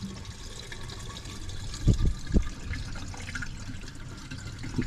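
Water running steadily into a car's radiator as the cooling system is refilled. Two dull thumps about two seconds in.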